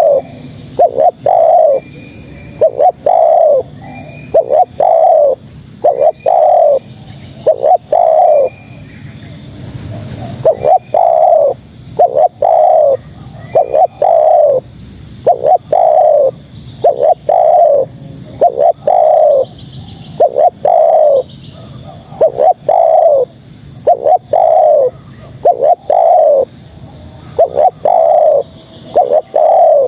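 Spotted dove (tekukur) cooing over and over in low, falling coos, about one to two a second, with a brief pause about a third of the way in. The call is given as a female calling to males, as used to lure them.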